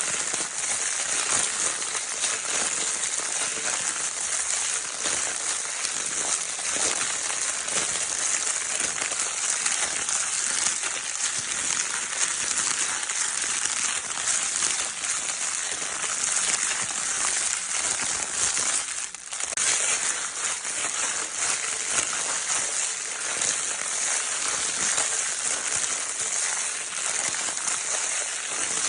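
Crinkle paper of a baby's crinkle toy rustled and crumpled without a break: a dense, steady crackling made of many tiny crackles, with a brief dip about two-thirds through.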